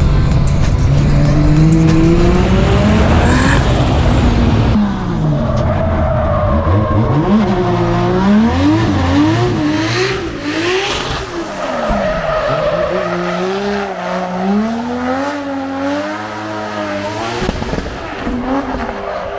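Drift car engines revving hard, the pitch repeatedly climbing and dropping, with tyres squealing in bursts, loudest about three seconds in and again around ten seconds in.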